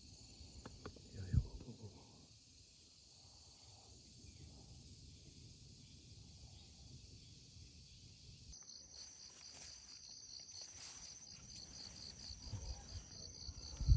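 Insects calling with a steady high buzz. About eight seconds in, a pulsed trill joins at roughly four pulses a second. A low thump comes about a second in and another at the very end.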